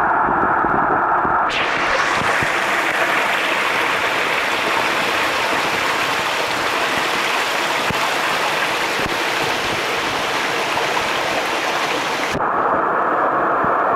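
Rushing water of a waterfall and its plunge pool. The sound is dull and muffled with the camera under water, turns into a full, hissing rush when it comes up about one and a half seconds in, and goes dull again near the end as it dips back under.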